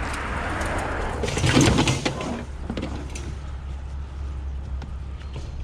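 Scrap being handled by hand: rustling, then a loud clatter of knocks about a second and a half in, with scattered clicks afterwards, over a steady low hum.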